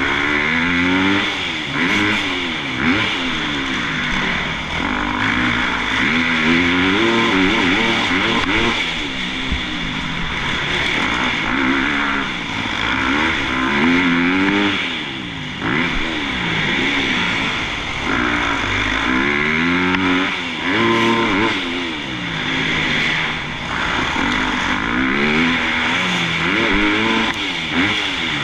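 Motocross bike engines revving hard and easing off over and over, the pitch climbing and dropping every second or two as the riders work the throttle and shift gears.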